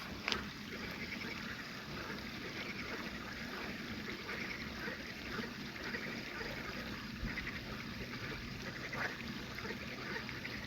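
Frogs calling in a dense night chorus: a steady chatter of many overlapping calls, with now and then a louder call standing out.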